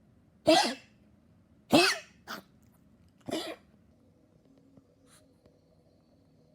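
Dog coughing: four coughs in about three seconds, the first two loudest, a short one straight after the second and a weaker last one. Part of a persistent, non-stop coughing spell in a dog that has grown weak.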